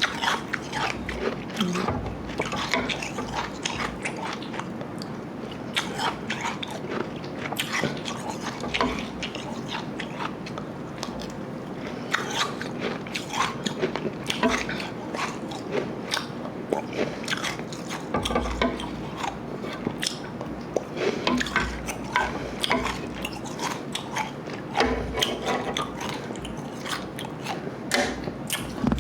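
Close-up crunching and chewing of mouthfuls of slush ice mixed with Igloo ice, with many short, irregular crunches.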